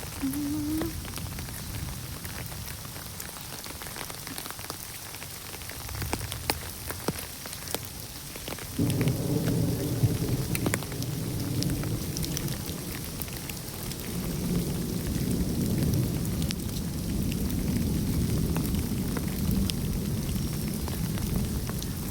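Heavy rain falling, with scattered drops striking close by. About nine seconds in, a deep low rumble sets in and goes on under the rain. A short rising squeak sounds near the start.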